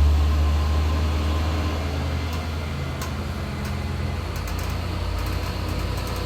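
Heavy-truck diesel engine running slowly under load as a loaded truck crawls uphill. It fades over the first couple of seconds as the truck moves away, and grows louder again near the end as the next truck approaches.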